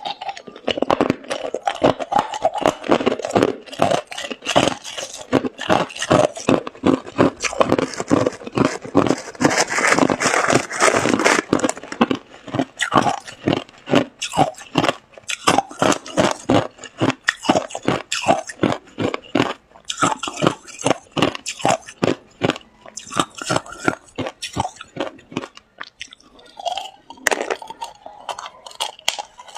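A person chewing ice: a fast run of loud, crisp crunches, several a second and packed close together at first, then more spaced out, with a brief pause near the end.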